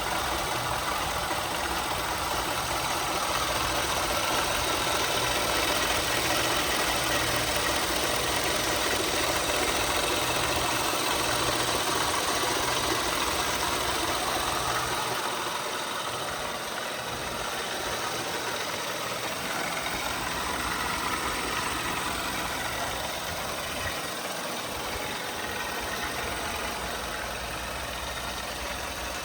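A 2013 Ford F-150 4x4 pickup's engine idling steadily.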